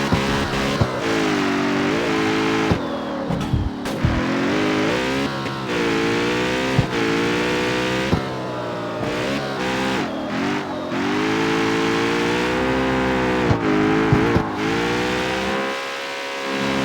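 Jaguar F-Type's supercharged V8 and exhaust, revs repeatedly climbing and dropping, with sharp exhaust crackles and pops between the pulls.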